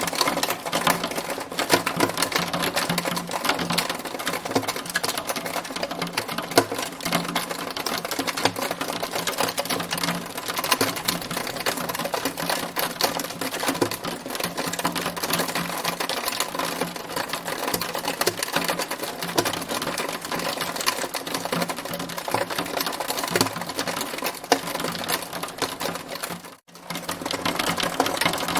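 Hailstones pelting a hard surface in a dense, continuous clatter of rapid ticks, with a momentary gap near the end.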